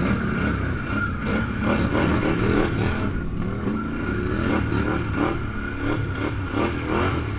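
An off-road vehicle engine is revving up and down unevenly as it works over rough trail. Frequent knocks and rattles from the vehicle run through it, along with a steady high whine.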